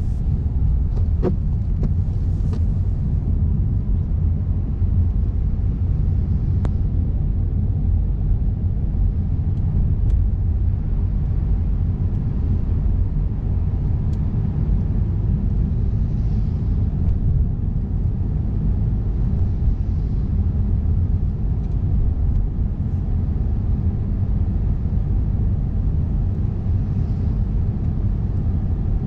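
A car driving on a snowy, icy road, heard from a camera mounted in the car: a steady low rumble of road and engine noise, with a few faint ticks in the first several seconds.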